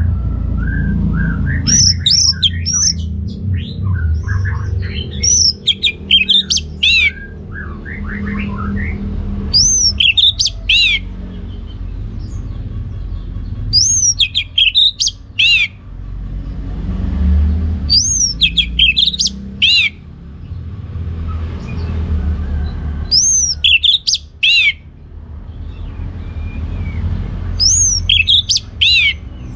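Orange-headed thrush singing in full, open song: phrases of clear whistles and quick sweeping, trilled notes, repeated about every four seconds, over a steady low rumble.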